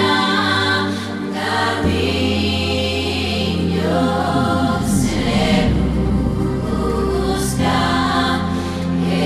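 Choral music: a choir of voices holding sustained chords that change every two or three seconds.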